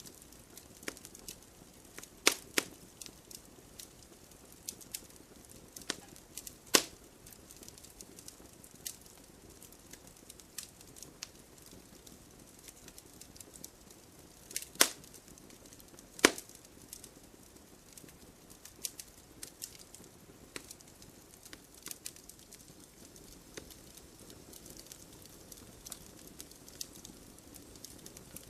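Wood campfire crackling: irregular sharp snaps and pops over a faint steady hiss, with a handful of louder pops standing out.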